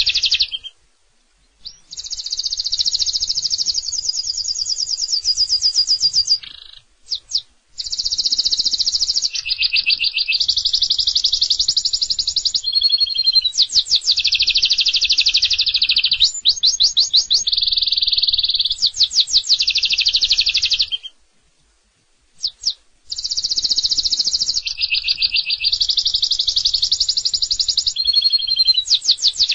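Domestic canary singing long, loud song phrases of rapid rolling trills and repeated notes, switching from one trill type to the next every second or two. The song breaks off briefly twice: about a second in and again about two-thirds of the way through.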